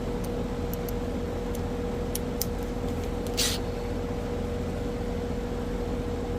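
Goodman outdoor AC condensing unit running with a steady hum that holds a constant mid-pitched tone, with a few faint ticks and a short hiss about three and a half seconds in.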